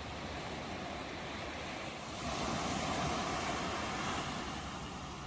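Ocean waves breaking on a shore, a steady wash of surf with one wave swelling to a louder crash about halfway through and then easing off.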